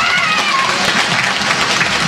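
Crowd applauding over loud music.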